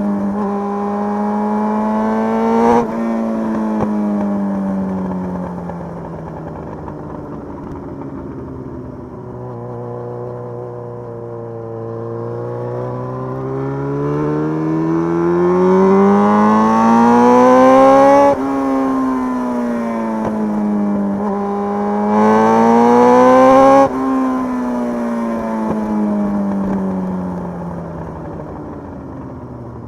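Motorcycle engine pulling through the gears while riding. Its pitch climbs steadily and drops sharply at each upshift, about 18 and 24 seconds in. Near the end the revs fall away as the bike slows.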